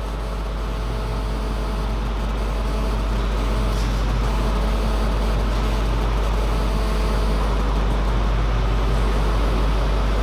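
Steady low hum under an even background noise of an indoor hall, with no ball strikes.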